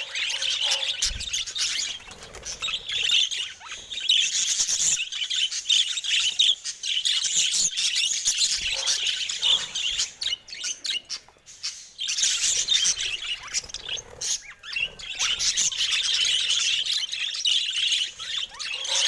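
Budgerigars chattering and warbling, a dense run of fast high chirps with a few brief pauses.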